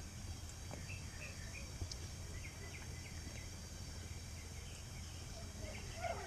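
Faint outdoor background: a steady low hum with scattered short bird chirps.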